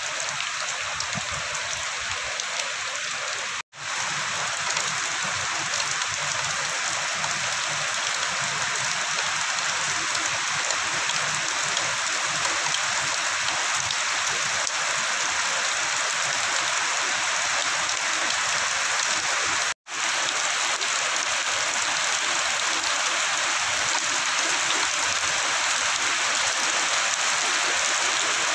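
Heavy tropical rain falling steadily in a dense, even hiss. The sound cuts out for an instant twice.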